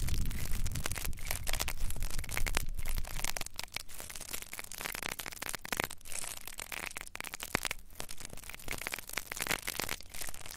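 Close-up ASMR crackling and scratching on a microphone's ear, a dense run of irregular clicks.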